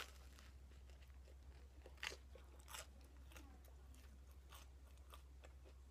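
Close-up chewing of a bite of potato-salad toast: a run of crisp crunches roughly every half second, the loudest about two seconds in, over a steady low hum.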